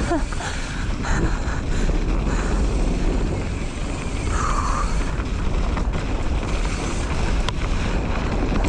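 Wind rushing over the microphone and mountain bike tyres rolling over a dirt trail on a descent, with a few sharp rattles from the bike and a short higher note about four and a half seconds in.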